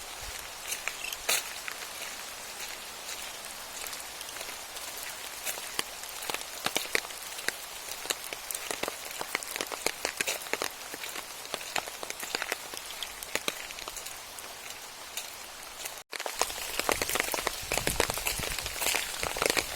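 Steady rain falling, a hiss with many sharp individual drop hits. It breaks off for an instant about sixteen seconds in and comes back a little louder and denser.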